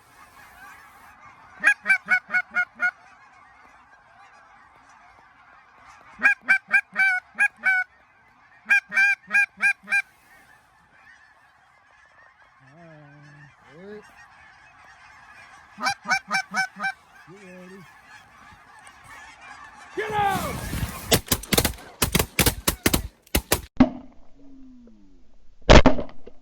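A large flock of geese honking steadily, with several loud bursts of rapid, close honking. About twenty seconds in comes a loud flurry of sharp cracks and clatter as the flock erupts, and a single loud crack follows near the end.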